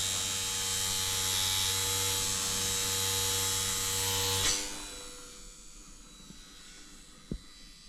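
Electric motor and propeller of an E-flite UMX Slow Ultra Stick micro RC plane running at high throttle with a steady whine. About four and a half seconds in, the throttle is cut suddenly and the sound falls to a faint hum, with a single short knock near the end.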